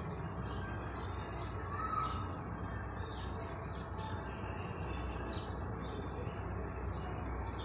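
Small birds chirping in short, scattered calls over a steady low outdoor rumble, with one brief lower call about two seconds in.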